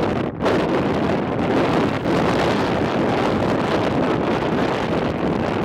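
Strong storm wind buffeting the microphone in a loud, steady rush of noise, briefly easing about a third of a second in.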